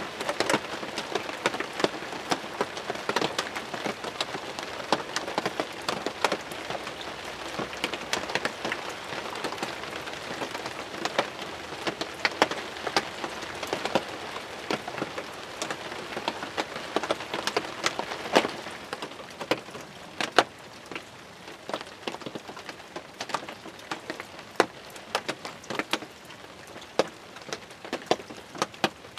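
Steady rain falling, with many separate drops striking close by in sharp ticks over the wash of the shower. It eases slightly about two-thirds of the way through.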